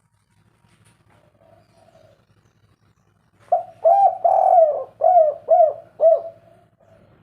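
Spotted dove (derkuku) cooing, the local 'kuk 3' song type: faint coos in the first couple of seconds, then a loud phrase about halfway in. The phrase is a short note, a long drawn coo and three short coos.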